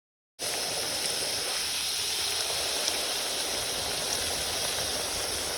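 Steady rushing of flowing water, cutting in abruptly about half a second in and holding at an even level.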